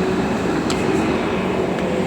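Steady hum and rumble inside the carriage of a Kawasaki Heavy Industries C151 MRT train with PMSM traction, with air-conditioning noise and a couple of faint ticks.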